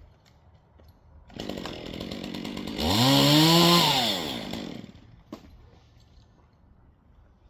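Chainsaw engine revved once: it starts running about a second in, climbs steeply to full speed for a second or so, then winds back down and falls quiet about five seconds in. A single sharp click follows.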